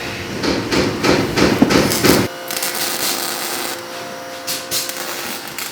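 Rough, rapid scraping strokes of hand work on a workshop job for about two seconds, then a sudden cut to quieter scattered clicks over a faint steady hum.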